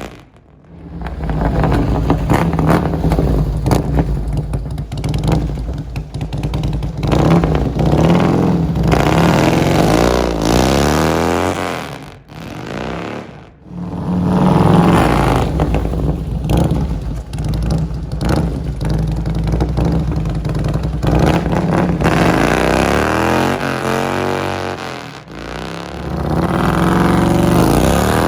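Harley-Davidson Softail V-twin engine running through a 42-inch Sharktail true-dual fishtail exhaust, revved up and let back down over and over. Twice near the middle the sound drops away briefly before the engine comes back in.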